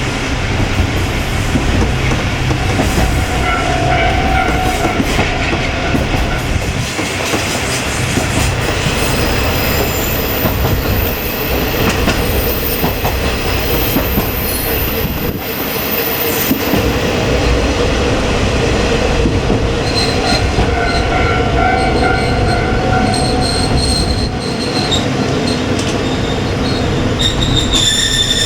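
Kiha 20 diesel railcar running over the line, its engine droning steadily under the rumble of wheels on rail, while it approaches its final stop. High steady wheel squeal comes and goes, about four seconds in and again for several seconds near the end.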